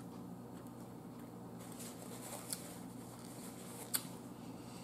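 Faint chewing and mouth sounds of someone eating, with a couple of small clicks about halfway through and near the end.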